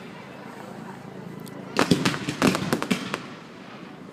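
Fireworks display: after a lull, a rapid cluster of sharp bangs and crackles about two seconds in, then dying away.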